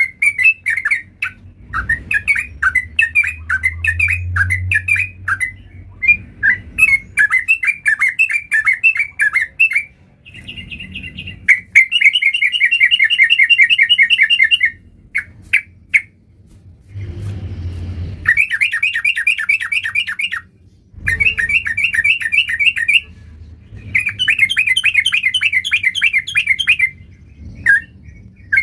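Yellow-vented bulbul (trucuk) singing, in phrases of rapid repeated notes that each last two to three seconds with short pauses between. A low rumble comes in one of the pauses, a little past halfway.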